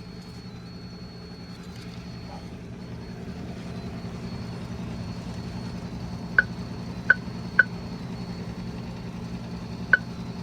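Steady low hum of an idling car, with four short keypad beeps in the second half from the car wash pay station as a wash code is keyed in.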